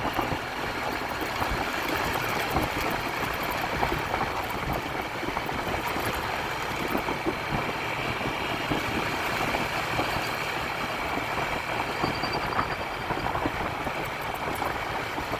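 A vehicle driving steadily down a dirt road, its engine running and a continuous rough rumble from the road surface.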